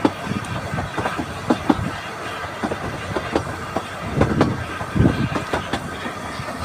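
Narrow-gauge steam train carriage running along the line, its wheels clicking irregularly over the rail joints under a low rumble that swells up a few times, most strongly about four to five seconds in.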